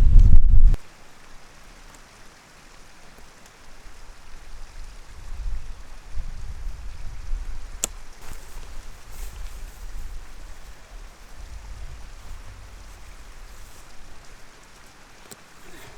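Wind buffeting the microphone, loud for the first second and then cutting off suddenly. Faint gusts of low rumble come and go after that, with a single sharp click about eight seconds in.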